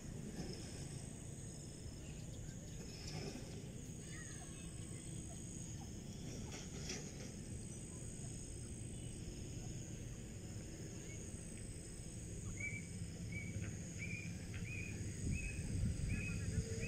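Grey francolin calling: a run of short, high, evenly repeated notes, about two a second, starting near the end. Under it, a steady low rumble and a thin, steady high-pitched ringing.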